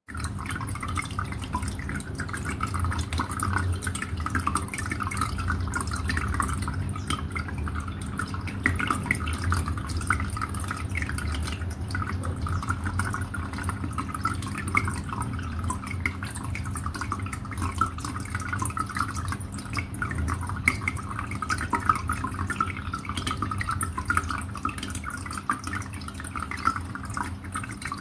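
Water trickling and dripping steadily into a bird watering hole, a continuous patter of small drops over a low steady rumble.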